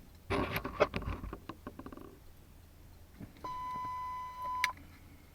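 Radio scanner's speaker sounding a steady single-pitched alert tone for a little over a second, ending with a click: a dispatch alert tone that comes before a fire department dispatch call. It follows a short burst of radio noise about a second long near the start.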